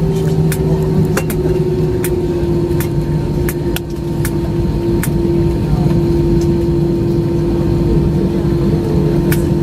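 Airbus airliner cabin noise while taxiing: a steady engine hum with a held whining tone that sinks slightly, overlaid by a dozen or so sharp clicks and knocks from the cabin.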